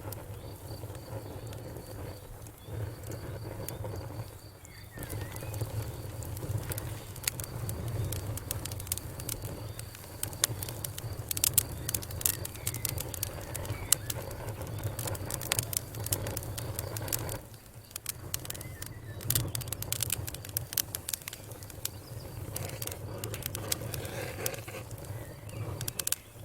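Wood fire crackling: a dense, irregular run of sharp pops and snaps over a low steady rumble, easing off briefly twice.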